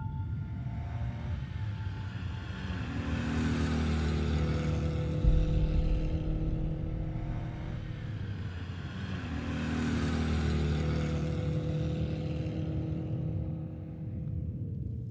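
Fiat 8V's two-litre V8 engine running, its sound swelling twice and easing back each time, then fading away. A short sharp knock about five seconds in.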